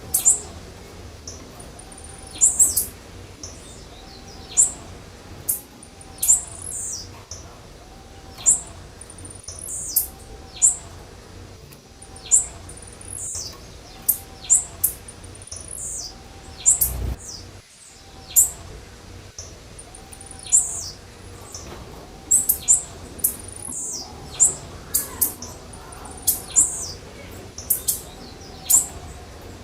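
Blue-black grassquit (tiziu) calling: short, sharp, very high notes repeated every second or two, some in quick pairs. A single low thump comes about halfway through.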